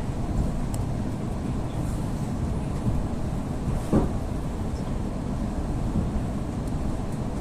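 Steady low rumble inside an EP2D electric train carriage, with one brief louder sound about four seconds in.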